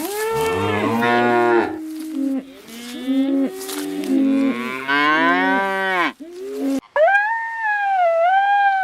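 Cattle mooing, several long overlapping calls at different pitches. About seven seconds in, it cuts abruptly to a dog howling in one drawn-out, higher-pitched call.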